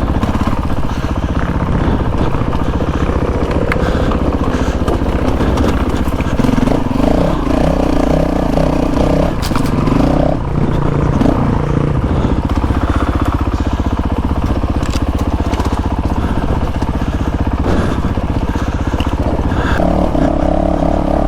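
Honda CRF450RL's single-cylinder four-stroke engine revving up and down in bursts while riding over loose rock, with stones crunching and clattering under the tyres. The revving is strongest between about six and twelve seconds in and again near the end.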